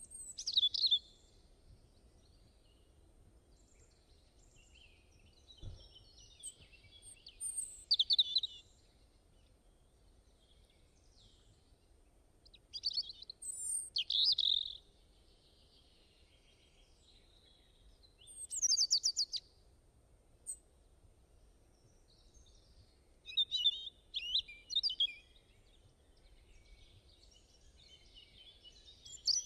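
Songbirds singing in short bursts of chirps and trills every few seconds, with quiet pauses between phrases.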